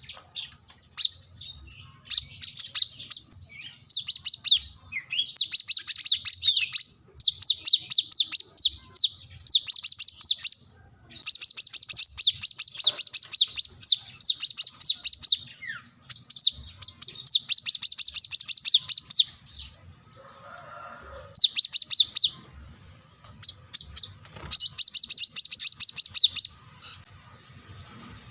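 Brown-throated sunbird (kolibri kelapa) singing vigorously: fast, high-pitched chirping phrases of one to three seconds each, repeated one after another with short pauses.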